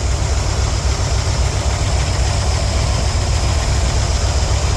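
Carburetted 355 V8 idling on a freshly rebuilt Holley 750 double-pumper carburettor, a steady fast low beat with the engine not yet warmed up.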